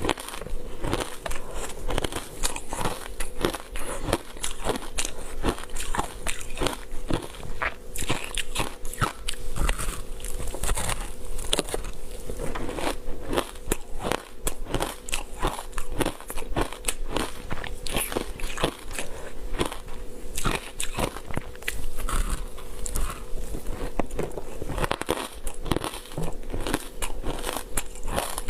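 A person biting and chewing ice coated in matcha powder, close to the microphone: a dense, irregular run of crisp crunches and crackles as the ice breaks between the teeth.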